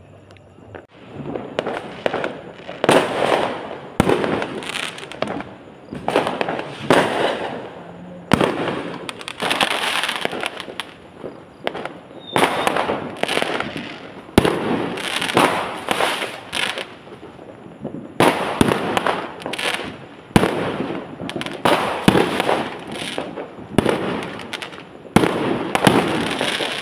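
Fireworks going off in rapid clusters: repeated sharp bangs, each followed by a crackling tail, with short lulls of a second or so between the volleys.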